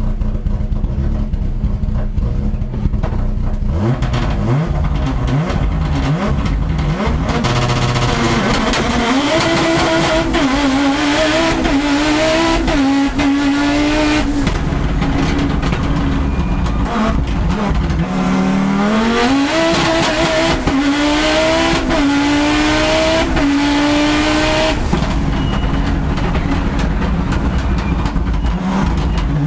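Audi Quattro S1 rally car's turbocharged five-cylinder engine, heard from inside the car, pulling hard through the gears. The engine rumbles low for the first few seconds, then its pitch climbs and drops again and again as it changes up, with a short high whistle at several of the gearchanges.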